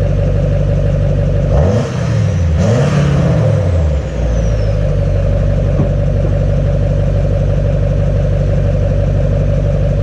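Duramax LMM 6.6-litre V8 turbo-diesel in a 2007.5 pickup idling, revved twice: a short blip about one and a half seconds in, then a longer rev that rises and falls back to idle by about four seconds in. It runs through the stock exhaust with the catalytic converter still on.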